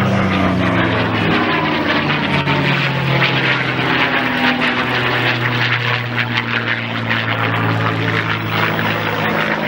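A P-51 Mustang's V-12 piston engine running at high power in flight, a steady propeller drone.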